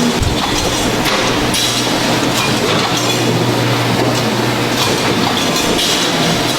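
Steady, loud machine noise with a constant low hum and faint irregular ticks.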